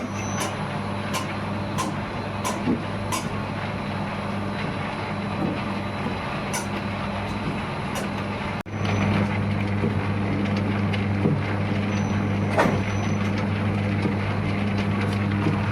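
Factory machinery running with a steady low hum and a noisy rush, with scattered light clicks and knocks. The sound drops out for an instant a little over halfway through, then the hum comes back louder.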